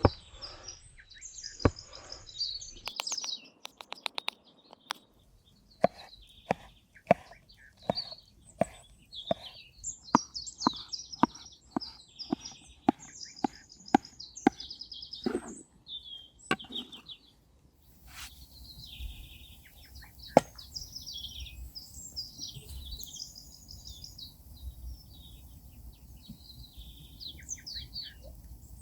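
Small songbirds chirping and singing, with a run of sharp knocks, roughly one a second, through the first two-thirds. The knocks stop at about 17 seconds in, and a low steady rumble comes in under the birdsong.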